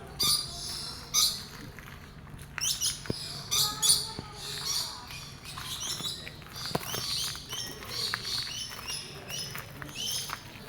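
Many small birds chirping and twittering in quick, overlapping high calls.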